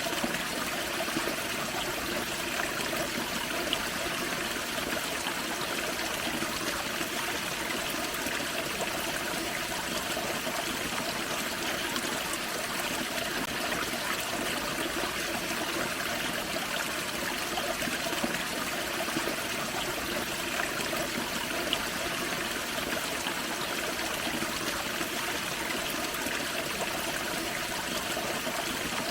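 Small forest creek waterfall: water trickling and splashing over rocks in a steady, even rush.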